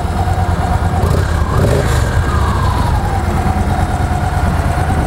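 2012 Victory Cross Roads's 106-cubic-inch air- and oil-cooled V-twin engine running steadily at idle with a deep, even rumble.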